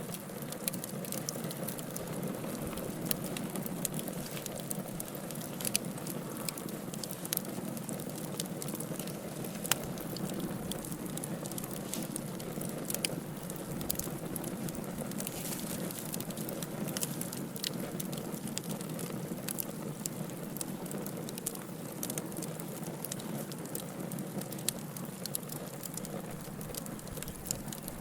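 Wood fire burning in a fireplace: many sharp, irregular crackles and pops over a steady low rush of flames.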